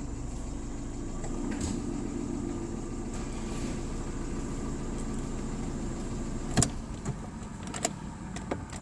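Daewoo Lanos 1.6-litre four-cylinder petrol engine running steadily. A few sharp clicks come in the last two seconds.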